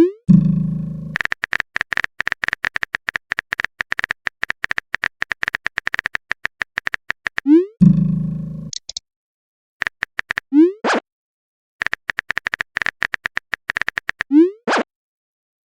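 Chat-app sound effects: long runs of rapid typing clicks, broken by short message pops that rise in pitch, four times. Twice a low tone rings and fades after the pop.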